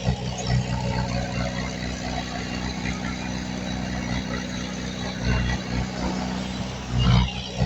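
Heavy diesel engine of earthmoving equipment running steadily, with brief surges in power about five seconds in and again near the end.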